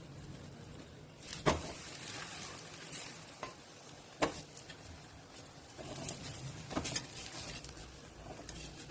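Mooli paratha frying in oil on a griddle, a steady sizzle that grows louder about a second in, with a few sharp knocks.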